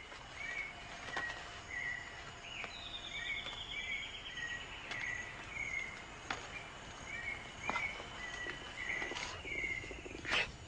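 Rainforest ambience: a bird repeats short chirps about once or twice a second over a steady high insect buzz. A long, slowly falling trill comes in about three seconds in, and a few sharp clicks sound near the middle and the end.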